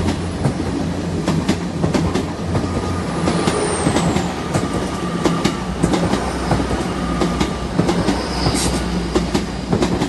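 Hitachi Class 800-series intercity train pulling away, its wheels clicking over rail joints over a steady low engine hum. About three seconds in there is a brief high wheel squeal that falls in pitch.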